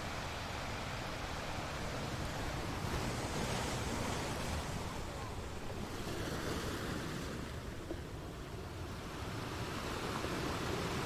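A steady rushing noise that swells and eases slowly: it is fuller a few seconds in, dips about two-thirds of the way through, then builds again.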